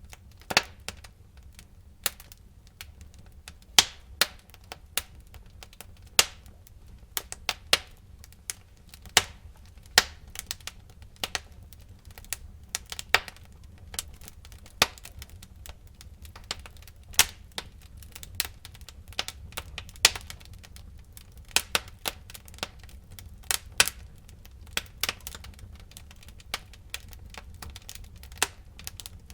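Burning firewood crackling and popping in a fireplace: irregular sharp cracks, some loud, over a low steady rumble of the fire.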